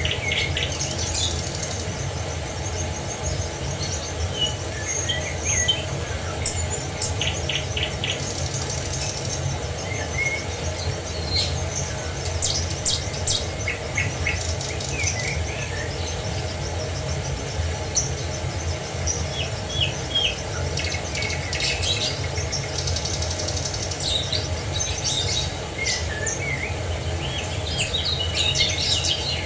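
Several songbirds chirping and trilling in short, overlapping calls throughout, over a steady low rumble.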